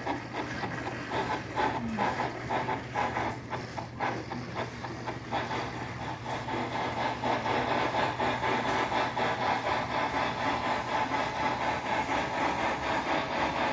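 HO-scale brass 2-6-6-2 model steam locomotive running, its TCS WOW sound decoder playing rhythmic steam exhaust chuffs and hiss through its small onboard speaker.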